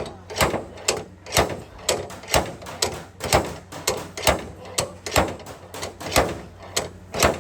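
A hammer beating car body sheet metal during accident repair: sharp metallic strikes about two a second, each with a short ring, and lighter taps between them.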